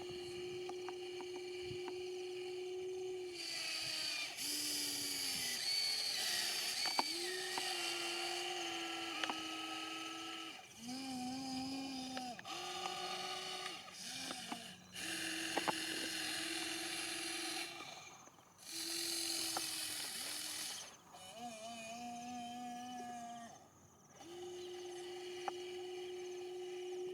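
Small geared electric motors of radio-controlled construction models whining in short runs of a few seconds, stopping and starting again, with the pitch shifting between runs and a few sharp clicks.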